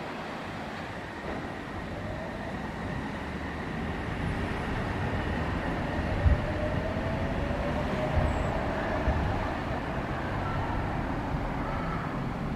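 Odakyu electric commuter train pulling slowly into the platform: a steady low rumble of wheels on rail with a faint drawn-out motor whine gliding slightly up in the middle, and a single short clack about six seconds in.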